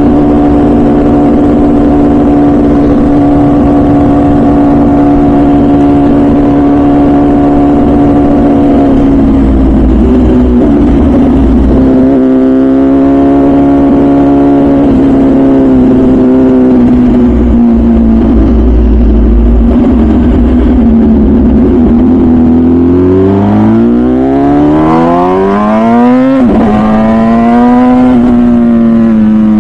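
MV Agusta Brutale 1000RR Nurburgring's 998cc inline-four running through its full titanium Arrow exhaust while being ridden. The engine holds a steady speed for several seconds, then its pitch falls and rises with the throttle. Near the end the revs climb hard, drop suddenly at a gear change, and climb again.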